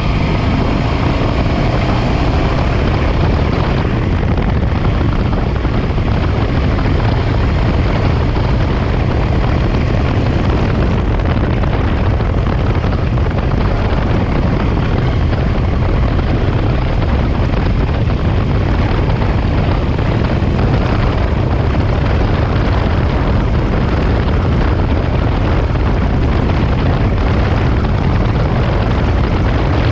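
Engine of a 1967 Triumph Daytona T100R, a 500cc parallel twin, running under way as the motorcycle is ridden. The engine note rises in the first second as it accelerates, then holds steady.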